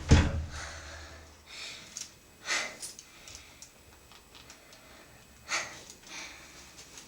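A low thump at the start, then a person's audible breaths, a few heavy breaths a few seconds apart.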